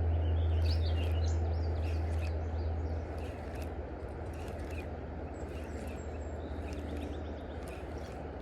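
Steady rush of river water, with birds chirping briefly in the first couple of seconds and a low rumble that eases off about three seconds in.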